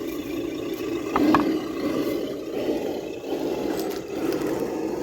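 Electric RC crawler's motor and geared drivetrain running steadily as it crawls, with a couple of sharp clicks about a second in.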